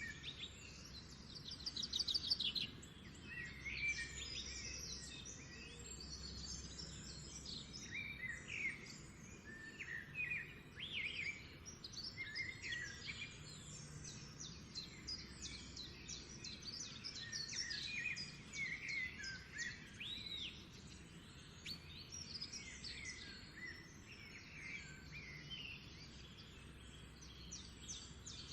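Many small songbirds chirping and singing at once: quick, overlapping trills and chirps that never stop.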